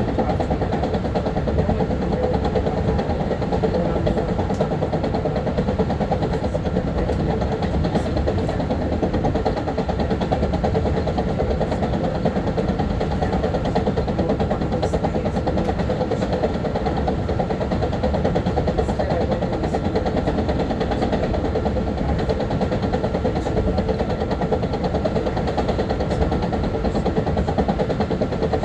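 Long Island Rail Road M3 electric railcar running: a steady rumble with a constant hum, and a few faint scattered clicks.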